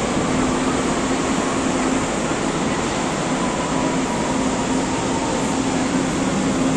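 Red DB S-Bahn electric multiple unit rolling along the platform in an underground station: a steady rumble of wheels and running gear with a steady low hum from the traction equipment. A faint higher tone joins in about the middle.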